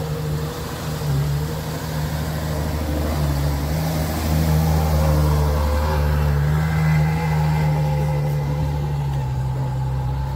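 Ferrari GTC4Lusso engine running at low revs as the car pulls away slowly, a steady deep hum with small rises and falls in pitch.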